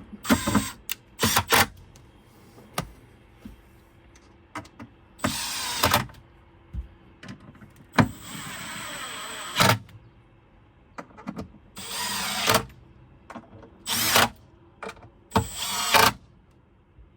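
Cordless drill-driver running in short bursts, driving screws into a panel, with small clicks and knocks of handling between the bursts; the longest run, about eight seconds in, lasts over a second.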